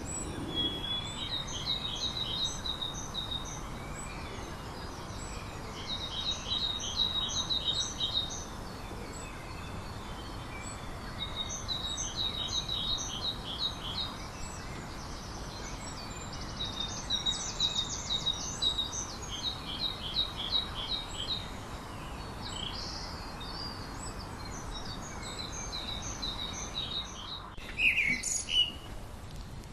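A songbird singing over and over, each song a rapid series of repeated high notes lasting about two seconds, coming every four to six seconds, over a steady background hiss. Near the end a louder, different call sweeps down in pitch.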